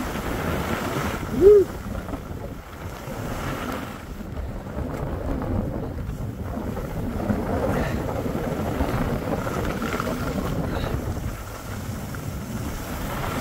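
Wind rushing over the microphone, steady throughout, with a short shout of "woo" about a second and a half in.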